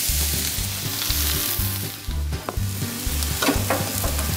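Sliced onions sizzling as they fry on a hot griddle plate greased with pork fat. Near the end, a metal spatula scrapes and turns them.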